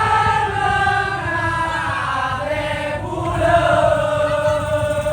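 Voices singing or chanting two long held notes, the second starting about three seconds in, over a steady low rumble.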